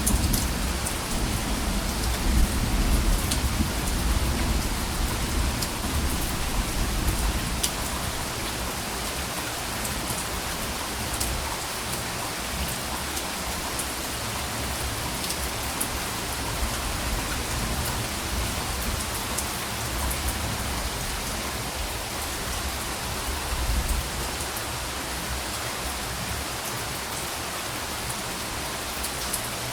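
Steady heavy rain falling, with scattered individual drops ticking. Soft, distant thunder rumbles low in the first few seconds and briefly again later on.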